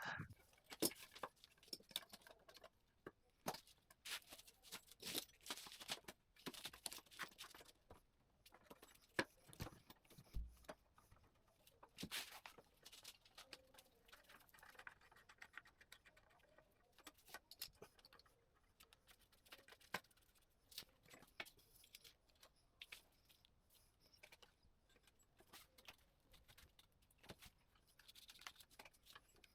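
Near silence, with faint, scattered clicks and light taps, and one soft low thud about ten seconds in.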